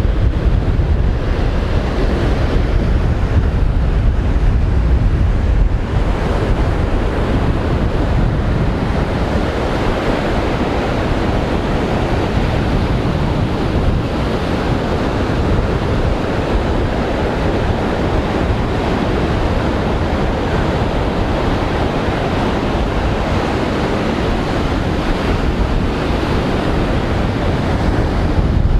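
Strong wind buffeting the microphone over the steady wash of rough surf breaking on the beach.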